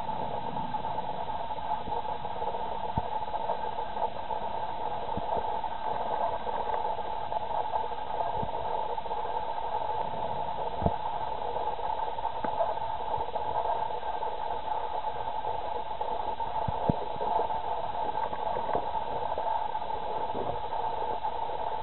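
Rain falling in a thunderstorm: a steady hiss with a few sharp ticks.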